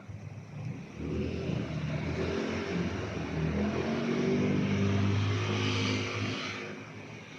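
A motor vehicle's engine passing by, growing louder over a few seconds and then fading away.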